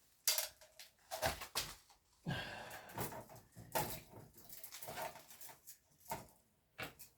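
Handling clatter from working with parts and tools: a series of sharp clicks and knocks, with a longer rustling scrape in the middle.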